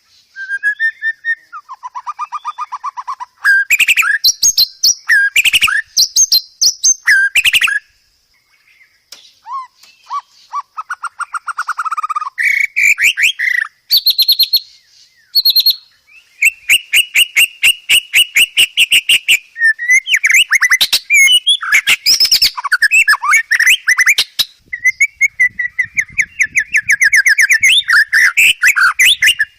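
White-rumped shama singing a long, loud, varied song of rapid trills, fast repeated notes, chattering and whistled phrases, with only a brief pause partway through. It is a 'full isian' song, packed with many mimicked phrases, used as a tutor recording.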